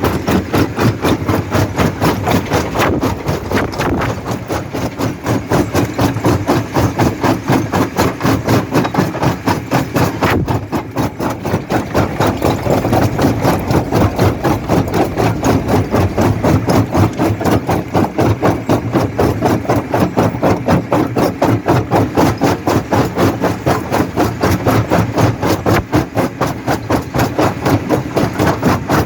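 Jaw rock crusher running, its jaw knocking in a fast, even pulse of several beats a second over a steady machine hum.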